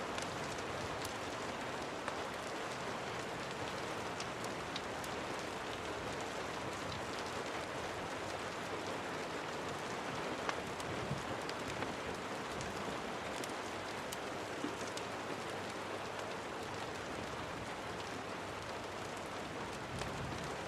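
Steady rain falling, an even hiss dotted with scattered light ticks and pops.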